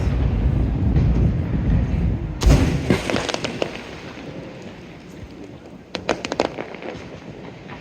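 Aerial fireworks shells bursting. A deep boom rumbles on through the first two seconds, a second sharp boom comes about two and a half seconds in, and short runs of crackling follow just after it and again about six seconds in.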